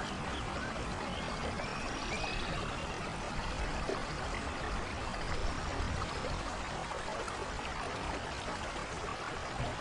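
Steady rain falling on rainforest foliage, a constant even hiss, with a few faint high-pitched animal calls through it.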